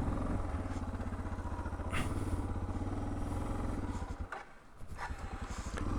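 Suzuki DR650 single-cylinder motorcycle engine running steadily with an even, rapid beat. The sound dips briefly about four and a half seconds in.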